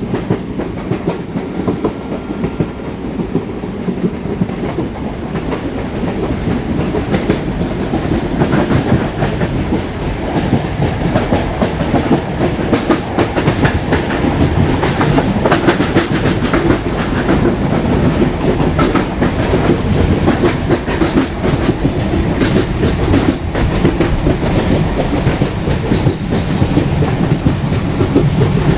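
Train running on rails, its wheels clattering rhythmically over the track. It grows louder over the first several seconds, then holds steady.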